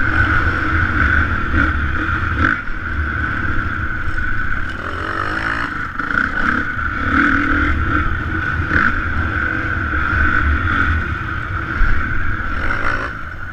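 Motocross bike engine running on a dirt track under changing throttle, with a steady low rumble. About five seconds in its pitch dips and then climbs again.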